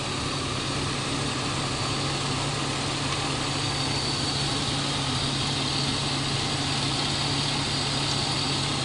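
BMW E36 320's 2.0-litre straight-six engine idling steadily with the bonnet open, during misfire troubleshooting.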